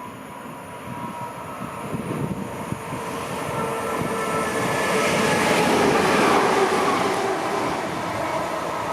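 A train passing through the station without stopping. Its rumble and wheel noise build steadily, are loudest about six seconds in, and then ease a little.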